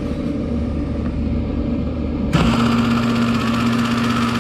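Wire-feed welder with a low hum, then about two seconds in its wire-feed motor switches on with a steady electric buzz and whir. The drive roll does not turn, a sign that the gear driving it is probably stripped or loose.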